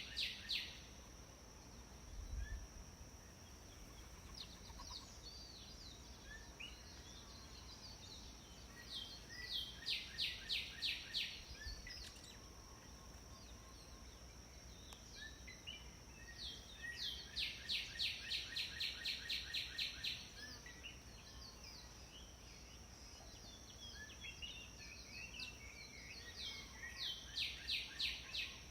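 Pileated woodpecker calling: three runs of rapid, evenly repeated high notes, about eight a second and each lasting two to three seconds. A steady thin high tone sounds throughout.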